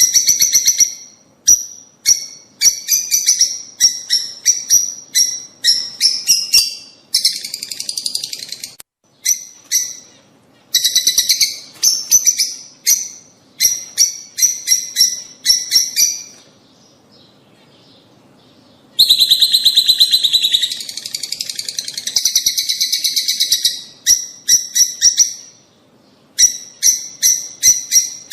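Lovebirds chirping: quick strings of short, high calls broken by stretches of dense chattering, with a pause of about two seconds past the midpoint.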